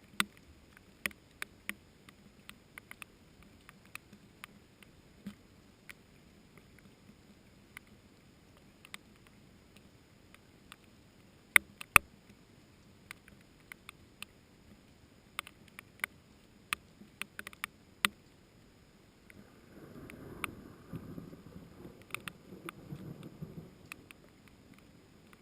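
Scattered raindrops striking leaves as sharp, irregular taps, a few of them much louder. About twenty seconds in, a low rumble of distant thunder rises and fades over about four seconds.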